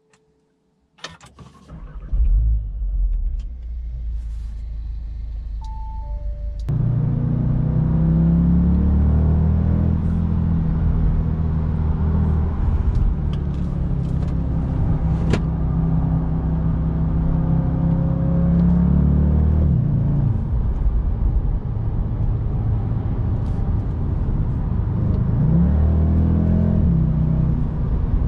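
Audi SQ2's 2.0-litre turbocharged four-cylinder starting about two seconds in with a short rev flare and then idling. It pulls away about seven seconds in and runs on under gentle load, heard from inside the cabin. The engine note rises slowly, drops near twenty seconds, and rises and falls again near the end.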